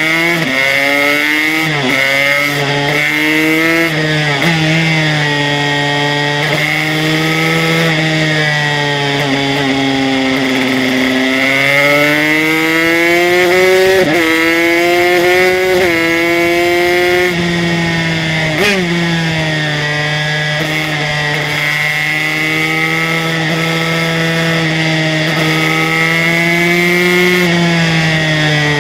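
Aprilia RS125 two-stroke single-cylinder racing engine, fitted with an HTM Racing 144cc kit, running hard on track: its pitch climbs and drops as it is revved out, with brief breaks at the upshifts from second through third to fourth gear.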